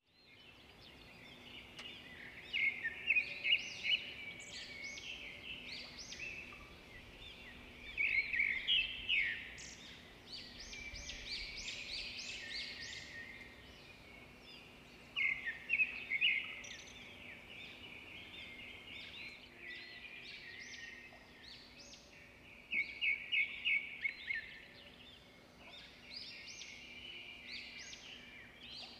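Birds chirping and twittering, with quick high-pitched calls that come in several louder bursts over continuous softer chirping, above a faint steady hum.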